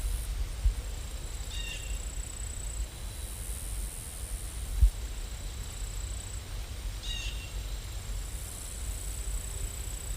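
Steady background rumble and hiss, with a faint high-pitched whine and two short chirps about five and a half seconds apart.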